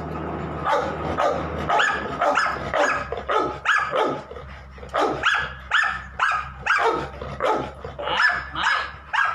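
A dog barking over and over in short sharp barks, about two a second, starting about a second in.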